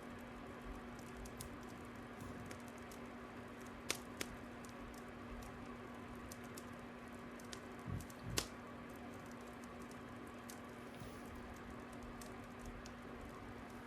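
Crackling fire: scattered small pops and snaps over a steady low hum, with two louder pops about four and eight seconds in.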